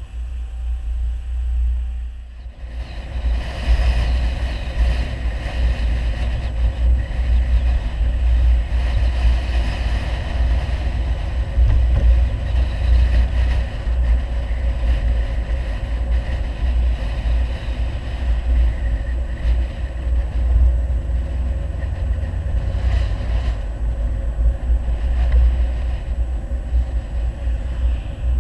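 Audi 100 2.3 quattro's inline five-cylinder engine with a CAC aftermarket exhaust, driving with a deep, steady rumble. About two seconds in the sound briefly drops away, then comes back louder and fuller as the engine pulls.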